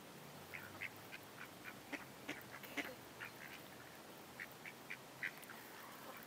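Ducks giving short, quiet quacks in an irregular series while feeding.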